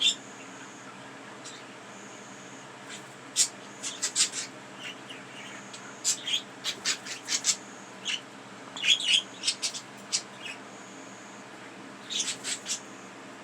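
Pet budgerigars chirping in quick clusters of short, high chirps, with pauses of a second or two between clusters.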